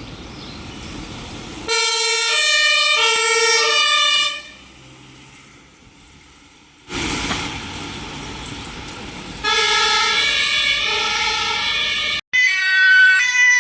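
German emergency vehicle two-tone siren (Martinshorn) alternating between a low and a high tone about every two-thirds of a second, passing with traffic noise. It stops twice abruptly, and near the end a different siren sounds.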